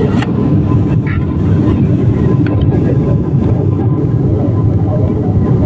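Airliner cabin noise: a loud, steady low rumble of engines and airflow heard from inside the plane.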